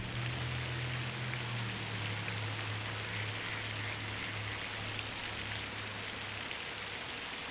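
Steady hiss of water, like rain, with a low steady hum under it that fades out about six and a half seconds in.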